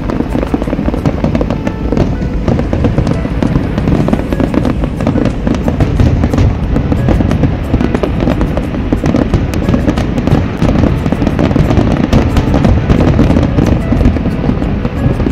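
Aerial fireworks display: many rapid, overlapping bangs and crackles of shells bursting, with music playing along.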